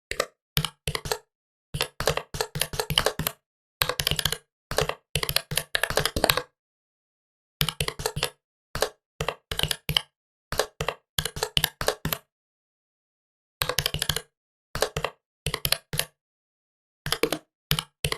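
Typing on a Huawei Matebook 13 laptop keyboard: quick runs of key clicks in bursts of a second or two, broken by short pauses, with longer gaps about six and a half seconds in and about twelve seconds in.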